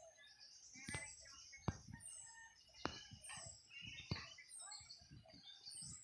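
Faint forest birdsong: several birds chirping, with one thin high falling note repeating about once every second and a bit. A few sharp clicks and knocks break in.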